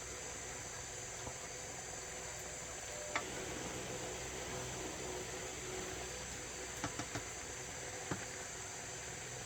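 Steady high-pitched chirring of insects, with a few sharp clicks: one about three seconds in and a quick cluster of three around seven seconds, then one more.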